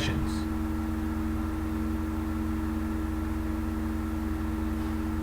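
Steady low background hum with a few faint held tones, even in level throughout.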